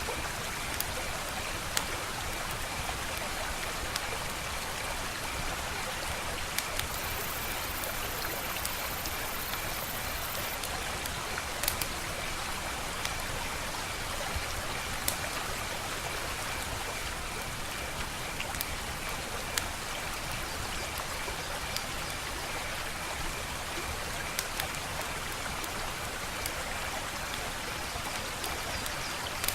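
Wood fire crackling: a steady hiss with scattered sharp pops and snaps every second or two.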